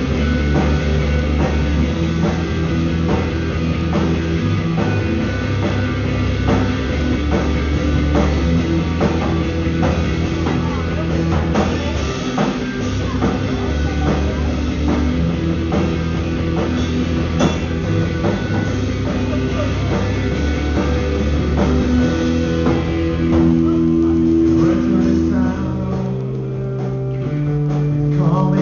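Live rock band jamming: drum kit keeping a steady beat under guitar, bass and singing. About 26 seconds in, the drums drop out, leaving held guitar and bass notes.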